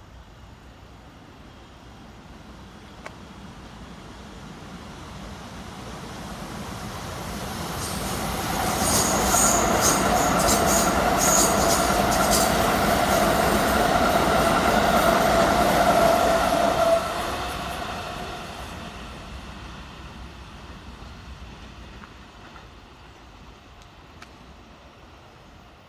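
A Keikyu 1000 series electric train passing close at speed: its rumble builds, stays loud for about eight seconds with a steady high whine and a run of sharp wheel clicks, then drops off suddenly as the last car goes by and fades.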